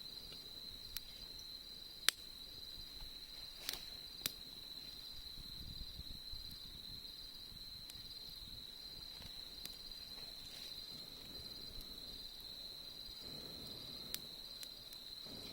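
Autumn insects trilling steadily in one continuous high, even tone, with a few sharp pops from a wood campfire, the loudest about two seconds in.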